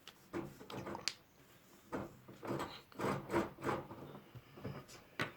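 Irregular scratching and rubbing of a colouring tool on paper, with a few light clicks.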